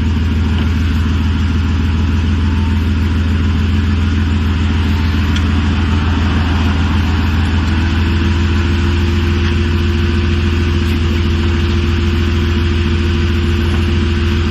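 Car engine and road noise heard from inside the cabin while driving, a loud, steady drone; a higher steady hum joins about halfway through.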